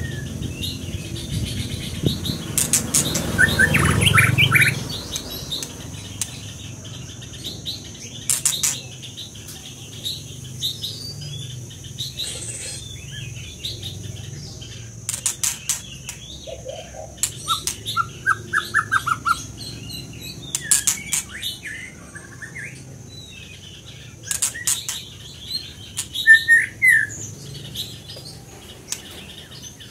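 Songbird singing in short chirps and brief trills, mixed with sharp clicks and flutters, with a low rumble swelling about four seconds in.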